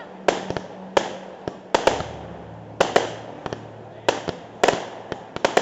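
Fireworks shells bursting overhead: about a dozen sharp bangs at uneven intervals, some in quick pairs, each with a short echoing tail.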